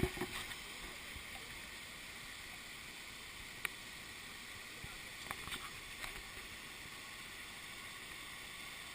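Waterfall rushing steadily, with a few light clicks at the start, about midway and a little after.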